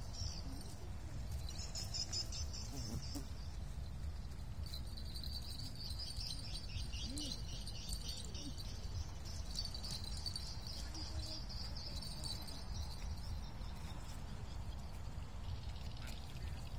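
Small birds chirping in quick trills that come in several runs, over a steady low rumble.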